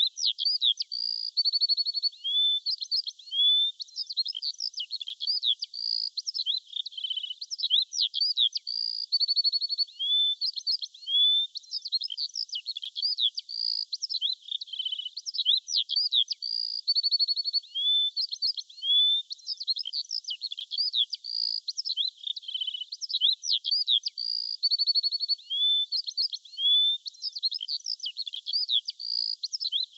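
Songbirds singing: a dense, unbroken run of high chirps, short whistled glides and quick trills, with no lower sounds beneath them.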